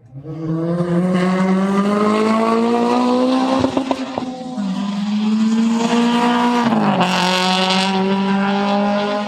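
A car engine accelerating hard through the gears, its note climbing steadily and dropping at two upshifts, about four and a half and seven seconds in, with a brief hiss at the second shift.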